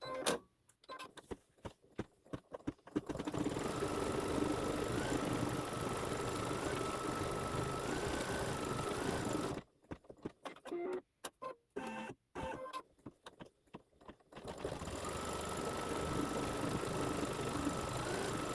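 An embroidery machine stitching a tack-down line over an applique piece. It starts with a quick series of clicks, then runs steadily with a faint motor whine that steps up in pitch now and then. About ten seconds in it stops for a few seconds, leaving only scattered clicks, then starts running steadily again.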